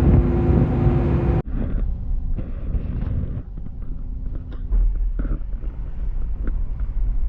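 Ferry engine droning with a steady hum, then after a cut about a second and a half in, a quieter low rumble with wind buffeting the microphone.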